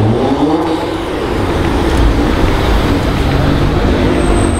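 Nissan GT-R's twin-turbo 3.8-litre V6 driving slowly past, its pitch rising and falling once within the first second, then settling into a steady low drone.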